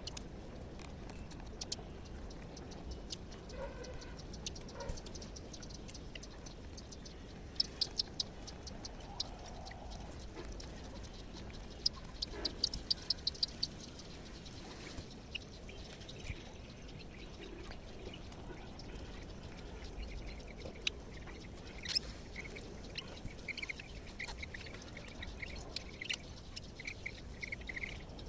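Wild birds calling over a faint steady background: scattered sharp, high chirps, with runs of quick chirps about eight seconds in and again around twelve to thirteen seconds, and a warbling call near the end.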